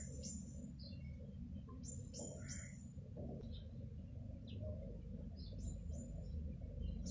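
Small birds chirping now and then, short scattered calls over a low steady hum.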